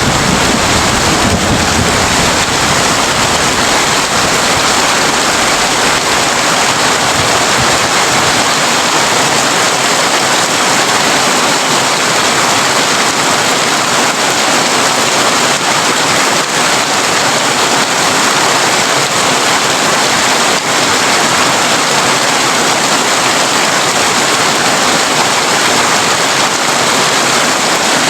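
Steady heavy rain falling on a tin roof. A low rumble fades away over the first several seconds.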